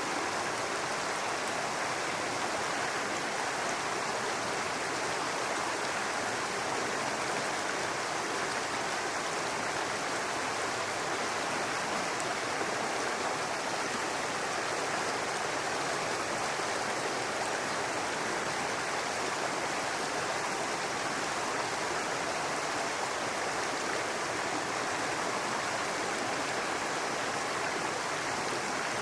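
Babbling brook: water running steadily.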